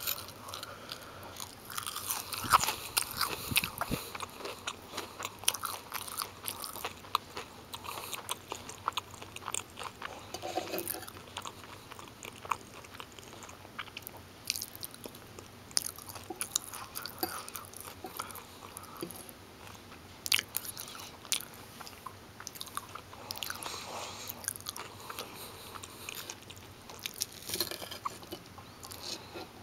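Crunchy chewing of crispy breaded fish sticks: many sharp crackles and crunches as the food is bitten and chewed, loudest a couple of seconds in.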